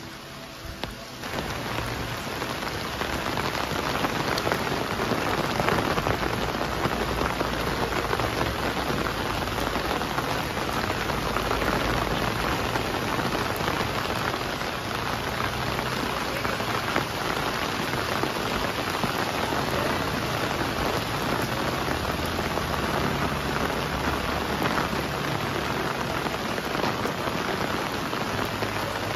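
Steady rain falling, growing louder about a second in and then holding even.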